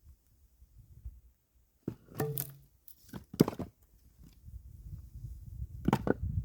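Firewood being split with an axe: three sharp cracks of the blade striking and the wood parting, the loudest about three and a half seconds in, with a low rumble underneath in the second half.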